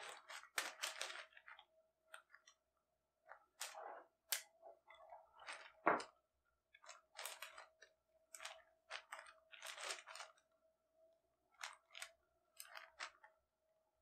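Short, scattered rustles and scratches of newspaper, a ruler and a pen being handled as a leather offcut is measured and marked, with a sharper tap about six seconds in. A faint steady hum runs underneath.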